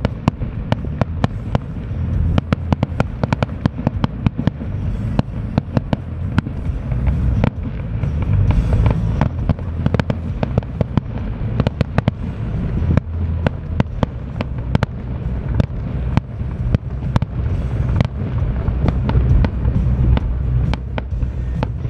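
Fireworks going off: a rapid, uneven string of sharp bangs and crackles, several a second, over a steady low rumble.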